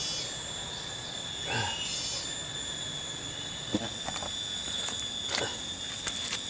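Steady high insect drone from cicadas and crickets. A few short squeals, each falling quickly in pitch, come through it about one and a half, four and five and a half seconds in.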